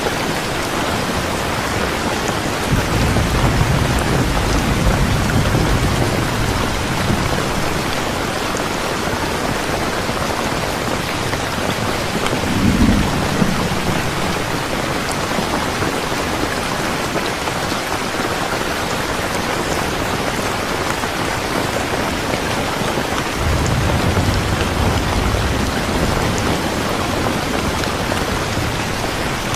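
Steady rain falling, with low rolls of thunder three times: a few seconds in, a sharper clap about halfway, and another near the end.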